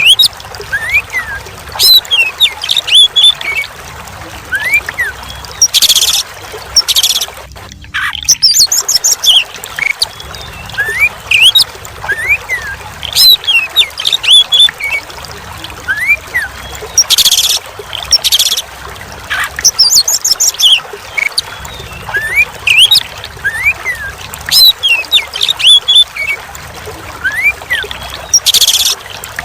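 Oriental magpie-robin (kacer) singing: a steady run of short whistled notes that slide up and down, broken by loud harsh notes and a quick trill, over trickling water.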